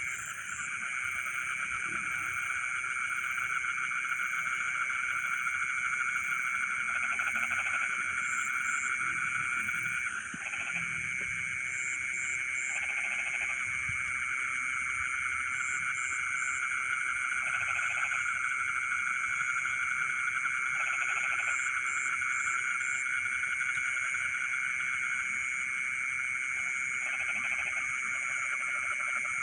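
Frog chorus in a flooded rice field at night: a dense, continuous trilling from many frogs, with a lower croaking call in short bursts every few seconds. A steady high buzz runs above it, broken now and then by quick high chirps in twos to fours.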